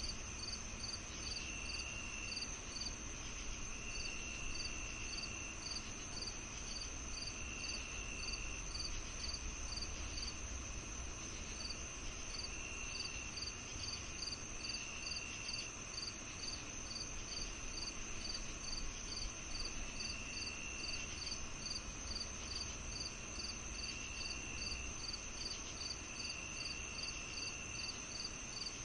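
Crickets chirping together: a steady high trill, a regular chirp repeating about two or three times a second, and a lower trill that starts and stops every few seconds, over a faint low rumble.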